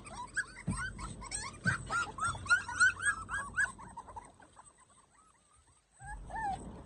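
A litter of young puppies whimpering, with many short high cries overlapping for about four seconds. The cries die away, and a few more whimpers come near the end.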